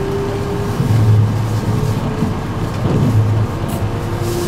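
Running noise of an E653-series electric express train, heard from inside the passenger car while it travels at speed: a steady low rumble that swells every couple of seconds, with a faint steady whine above it.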